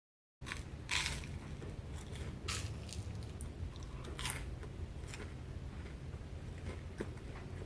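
A person biting into and chewing a sandwich: a few short crunchy bites over a low steady hum.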